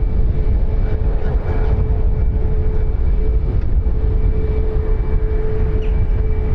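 Aircraft engines running steadily: a loud low rumble with a steady hum running through it.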